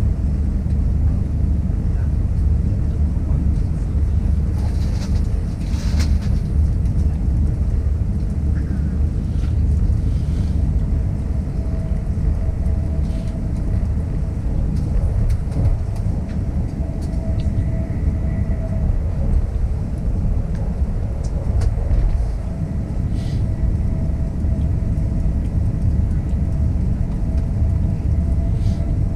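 Passenger train running: a steady low rumble with a faint steady tone above it and occasional light clicks.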